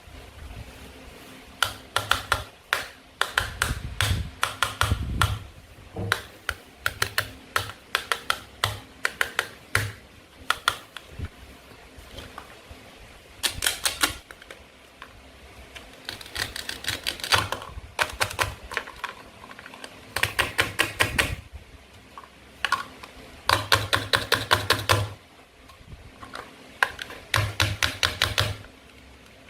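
Toy knife and hard plastic play food clicking and tapping in quick bursts of sharp clicks, with short pauses between bursts, as the toy food is cut and handled.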